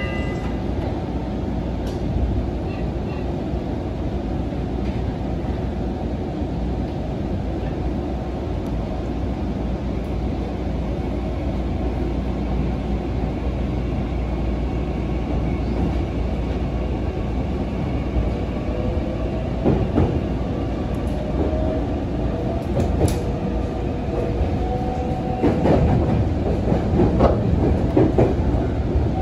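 Meitetsu electric commuter trains passing at close range: a steady rumble of wheels on rail, with a rising whine through the second half and clusters of sharp wheel-on-rail-joint clacks toward the end.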